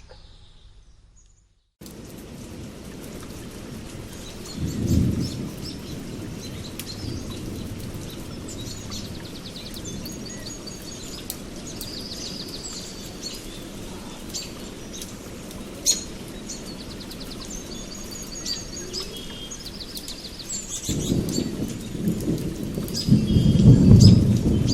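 Steady rain with thunder rumbling, once about five seconds in and longer and louder near the end, while birds chirp over the rain. It opens with a brief fade to silence before the rain starts.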